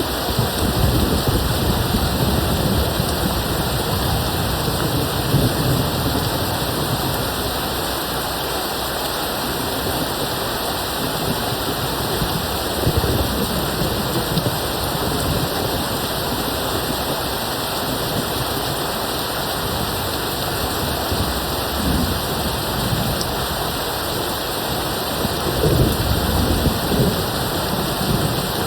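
Steady rain with distant thunder rumbling low several times: a long roll in the first few seconds, a brief one midway, and the loudest roll near the end.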